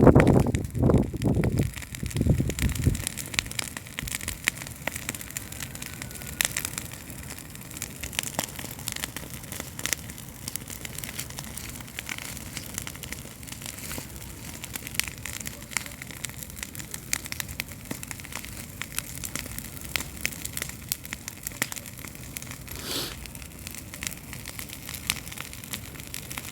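Wood campfire burning, with a dense, irregular crackle of sharp snaps and pops. A few loud low rumbling bursts come in the first couple of seconds.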